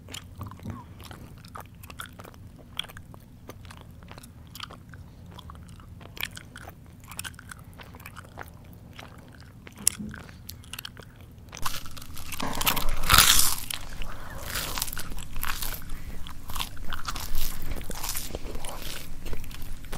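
Close-miked mouth sounds of a person eating: soft, scattered wet chewing clicks, then from about twelve seconds in loud, dense crunching as a crunchy snack is bitten and chewed.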